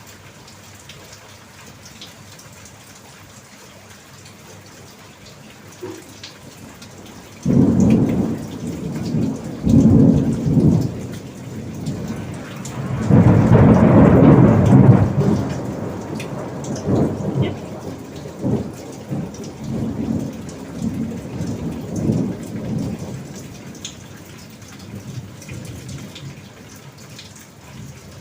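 Steady rain with rolling thunder: a faint even hiss, then a series of loud low rumbles. The first starts suddenly about a quarter of the way in, the loudest comes around the middle, and they die away in smaller rumbles.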